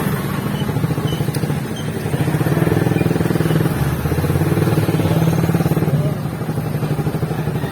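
Motorcycle engine running steadily while riding, its exhaust pulsing evenly, easing off briefly about two seconds in and again around six seconds.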